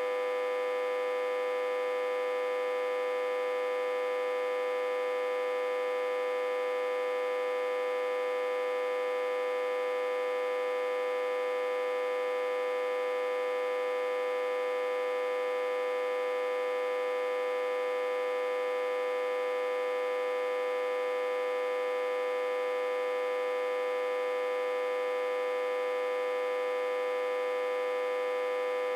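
Autotransformer humming, a steady electrical buzz with one strong tone and many overtones that never changes in pitch or level. It is driven at about 60 to 80 V while reverse-connected to a step-down transformer.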